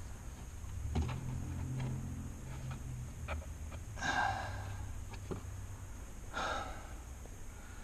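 A person breathing out audibly through the nose, in puffs about two seconds apart, with a few light clicks and taps from handling interior trim parts and tools.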